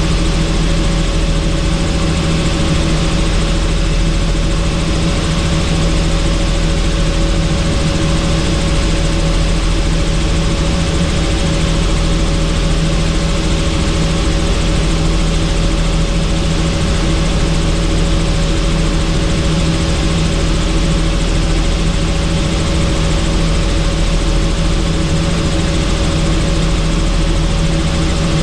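Helicopter in flight heard from on board: a loud, steady drone of rotor and engine with several held tones over a rushing noise, unchanging throughout.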